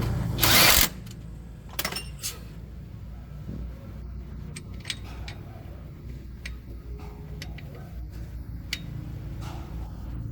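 A short loud hiss about half a second in, then scattered light metallic clinks and ticks of tools and parts being handled, over a low steady rumble.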